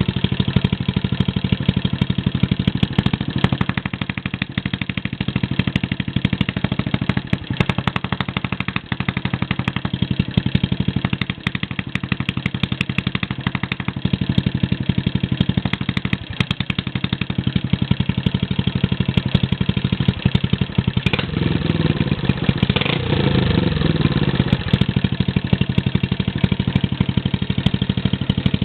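Honda Little Cub's 49 cc single-cylinder four-stroke engine idling steadily through a homemade muffler, with a short rise in revs about two-thirds of the way through.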